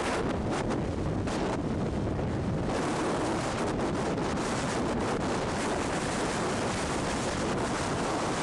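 Hurricane wind blasting across a camcorder microphone: a steady, loud rushing noise with no break.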